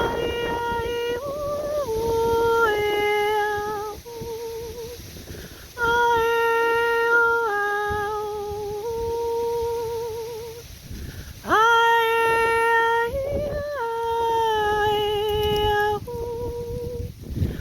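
A woman's voice humming long sustained notes without words, in several drawn-out phrases with short breaths between; each note wavers slightly and steps up or down a little in pitch.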